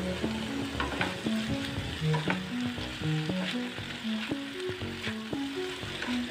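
Beef keema (mince with onion and tomato) sizzling on a flat tawa griddle while a spatula stirs and turns it, with repeated short scrapes and taps of the spatula against the pan. A melody of background music plays throughout.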